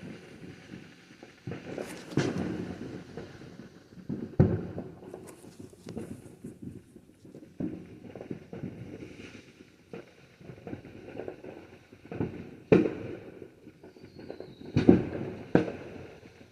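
Fireworks going off: sharp bangs at irregular intervals with low rumbling between them. The loudest come about four seconds in and in a cluster near the end.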